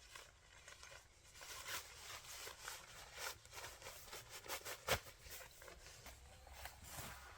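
Irregular light clicks and rustling from things being handled, with one sharper knock about five seconds in.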